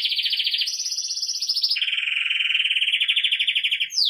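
Belgian canary singing a rapid rolled trill in the 'campainha' (bell) song style. The trill jumps to a higher pitch just before a second in, drops lower just before two seconds, and near the end breaks into quick falling notes.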